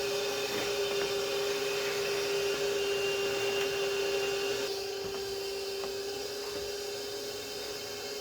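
Vacuum cleaner motor running steadily with a constant hum and airy hiss. The hiss turns a little duller and quieter about halfway through.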